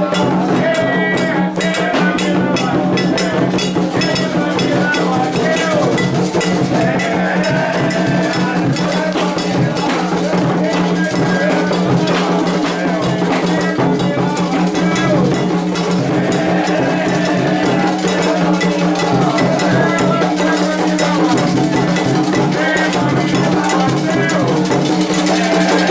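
Candomblé ritual music: hand drums and a metal bell struck in a steady pattern, with voices singing over them.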